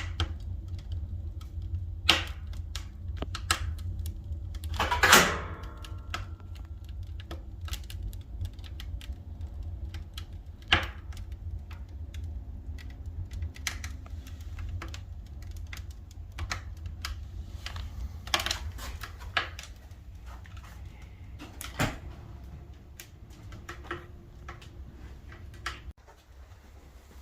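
Wood fire burning in a fireplace stove, crackling with irregular sharp pops over a steady low rumble. One louder, longer burst comes about five seconds in.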